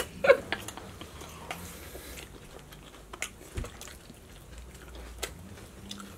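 Faint chewing and mouth noises from eating barbecue riblets, with a few small clicks scattered through.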